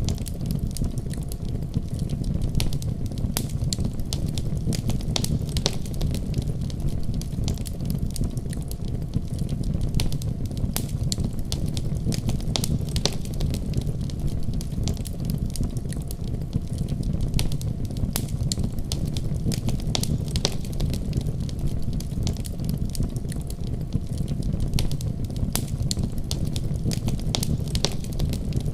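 Wood fire crackling in a fireplace, with irregular sharp pops and snaps scattered throughout, over a steady low rumble.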